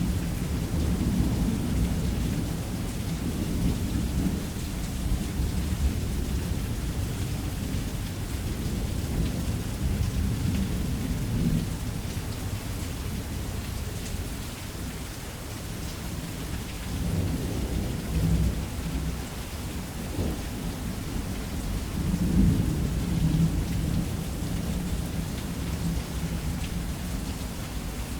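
Heavy, steady rain hissing, with thunder rumbling low underneath in rolling swells. The loudest swell comes near the end.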